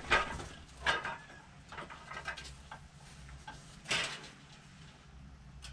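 A few scattered light knocks and clinks from hand-tool work on a motorcycle, the loudest about four seconds in, over a low steady hum.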